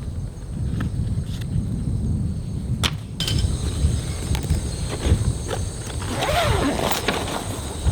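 Strong wind buffeting the microphone as a low rumble, with a few sharp clicks and a short rustle of handling near the end.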